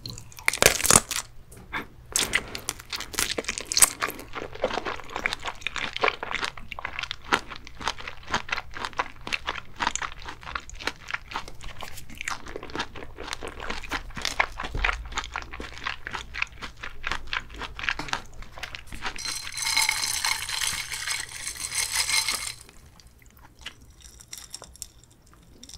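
Close-miked biting and chewing of a grilled sausage with a snappy casing: wet, crackly chewing and mouth sounds. Near the end a different hissing, crackling noise lasts about three seconds before it goes quieter.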